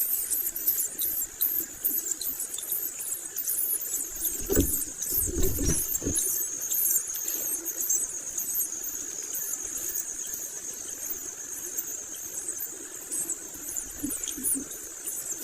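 Long-tailed shrike (cendet) nestlings begging: rapid, very high-pitched squeaky calls repeated without pause, over a thin steady high tone. A few low bumps come about five seconds in.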